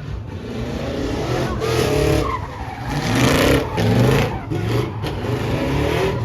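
Truck engines revving, their pitch rising and falling, with tyre squeal; the loudest, noisiest stretch comes about three seconds in.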